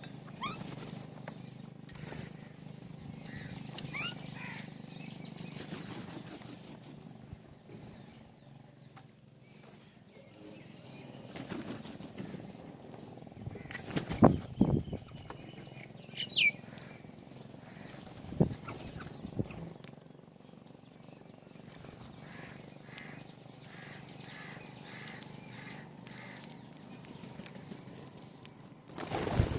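Birds at a feeder: wings flapping in a few short bouts, loudest about halfway through and again near the end, with a few brief high chirps.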